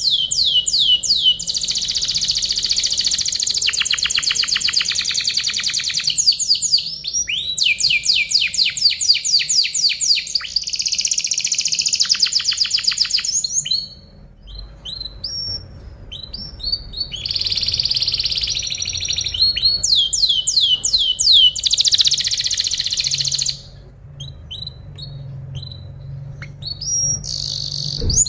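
Domestic canary singing: long phrases of fast trills, each a run of quickly repeated down-slurred notes, broken by quieter spells of scattered chirps about fourteen and twenty-four seconds in.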